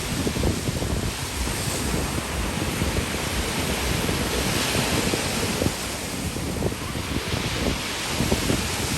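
Ocean surf breaking and washing up the beach, with a louder wash of hiss about halfway through, and wind buffeting the microphone throughout.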